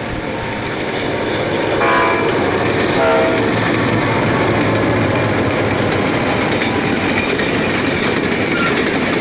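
Short freight train behind a single EMD GP38 diesel locomotive rolling past, its wheels clicking over the rail joints, growing louder over the first couple of seconds. Brief tones sound about two and three seconds in.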